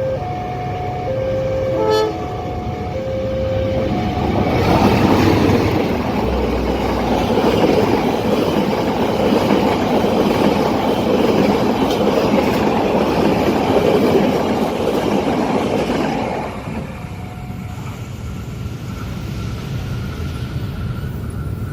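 Level crossing warning alarm sounding in a two-tone alternating pattern, with a short sharp blip about two seconds in. A train then passes the crossing at speed, its loud rush of wheels and cars lasting about twelve seconds before dropping away.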